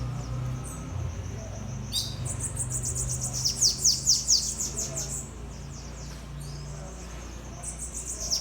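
Bananaquit (sibite) singing: a high, fast song of quick downward-sweeping notes, with a burst about two seconds in and another near the end. A steady low hum runs underneath.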